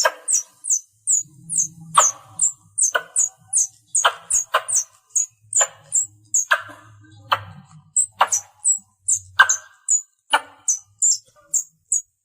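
Squirrel calling: a rapid, steady string of short high chirps, each dipping slightly in pitch, about three a second, with sharper clicking chucks roughly once a second. This is the call squirrels give to bring their companions to them.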